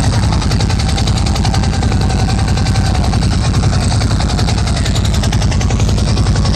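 A recorded helicopter sound played loud over a club PA system: a fast, steady rotor chop over a heavy low rumble.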